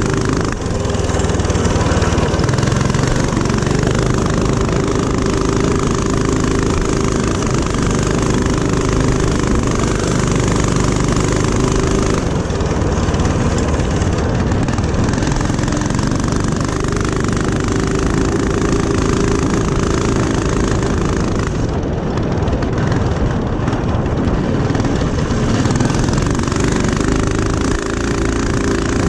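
Small single-cylinder four-stroke mini-bike engine running continuously while being ridden. Its sound eases back briefly near the middle and again about three quarters of the way through.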